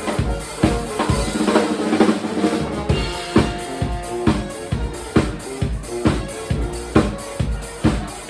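A live band playing, driven by a drum kit with bass drum and snare on a steady beat under pitched instruments. About a second and a half in the bottom end drops out briefly, then the full beat comes back.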